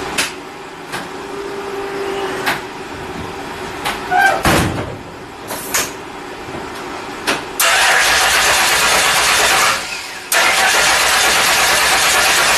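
Big-block Ford V8 being started: two loud spells of two to three seconds each, the first about eight seconds in and the second about ten seconds in. A few clicks and knocks come before them.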